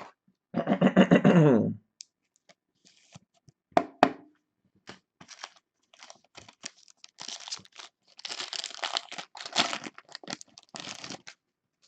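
A trading card pack's wrapper being torn open and crinkled, with clicks and rustling as the cards are handled. A short voiced sound comes near the start.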